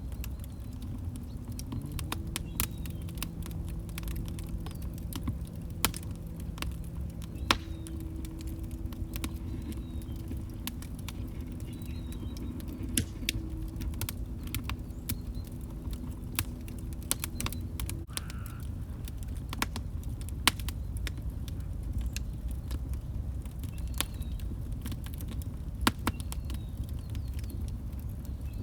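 Log fire crackling: irregular sharp pops and snaps over a steady low rumble of burning. A faint low steady hum runs underneath for the first two-thirds and cuts off suddenly.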